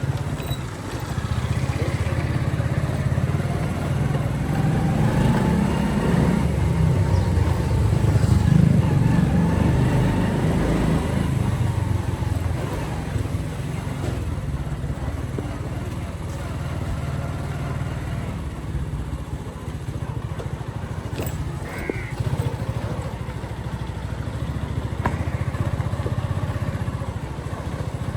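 Motorcycle engine running steadily as the bike is ridden along a street, its rumble swelling louder between about five and eleven seconds in.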